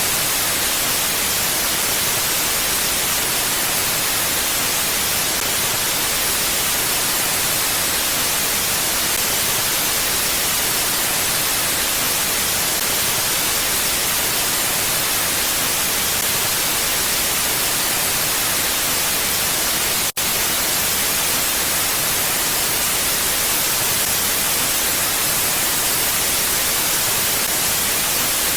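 Steady, bright, even hiss of a looped wind ambience track, with no gusts or swells; it drops out for an instant about twenty seconds in, where the loop joins.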